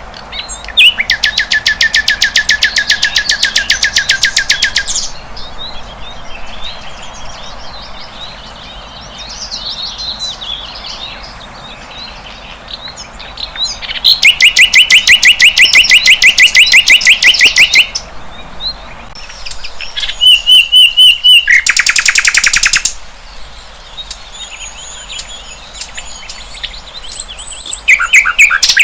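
Sikatan londo flycatcher singing: loud, fast trills of rapidly repeated notes lasting a few seconds each, four times, with softer twittering and high thin whistles in between.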